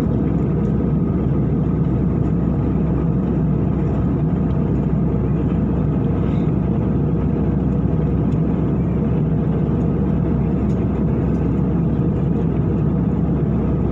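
Airliner cabin noise in cruise flight: a steady low drone of engines and rushing air, unchanging throughout.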